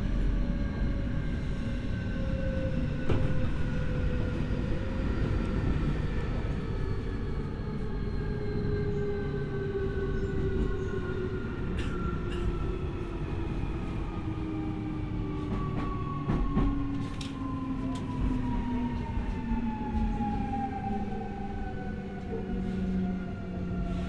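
Keio 1000 series electric train slowing on the approach to a station, heard from inside the car. The VVVF inverter and traction motors whine in several tones that fall steadily in pitch, over a constant rumble of wheels on rail with a few sharp clicks from rail joints.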